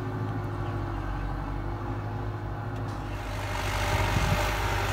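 Farm tractor's diesel engine running steadily, then revving harder and louder about three seconds in as the tractor works against deep mud.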